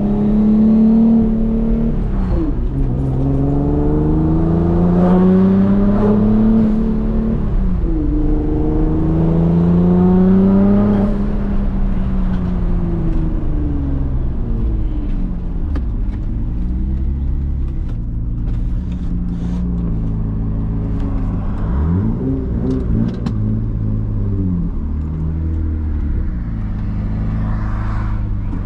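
Twin-turbocharged 3.5-litre VQ35DE V6 of a 2006 Nissan 350Z running, its pitch climbing steadily for a few seconds and dropping back three times, then rising and falling in shorter, more irregular swings.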